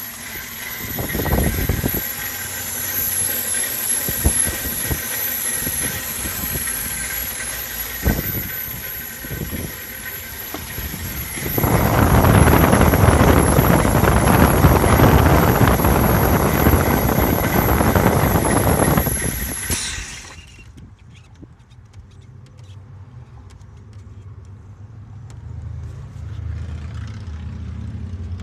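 2002 Ford Explorer's engine running at a rough idle, with a thin high whine and irregular thumps. It gets much louder for several seconds past the middle, then drops off sharply about two-thirds through, leaving a quieter low rumble.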